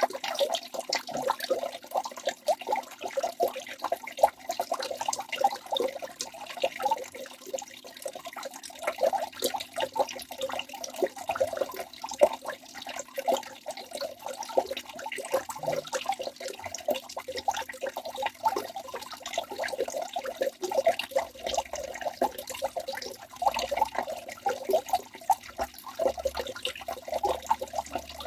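Waterfall rushing: a continuous churn of falling, splashing water with no let-up.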